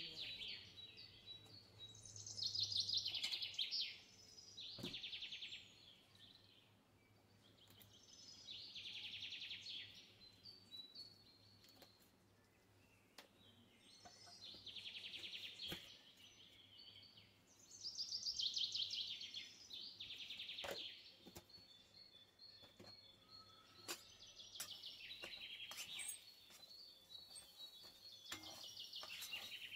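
Recorded birdsong used as a background sound effect: small birds chirping in repeated bursts of fast, high trills every few seconds.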